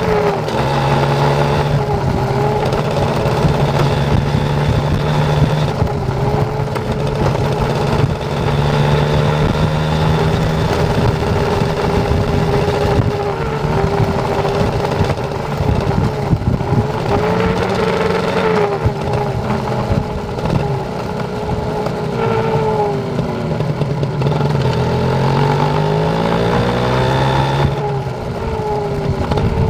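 Kawasaki Ninja RR's two-stroke single-cylinder engine running while the motorcycle is ridden, its pitch repeatedly rising and falling with the throttle and gear changes.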